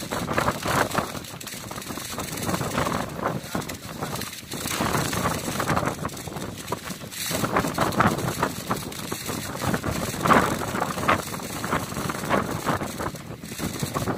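Strong wind buffeting the microphone, a rough noise that swells and fades in gusts.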